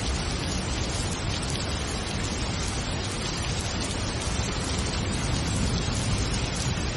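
Steady rain: a dense, even hiss with a low rumble underneath.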